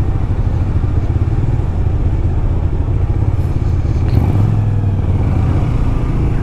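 Motorcycle running at a steady pace, a continuous low rumble with road noise.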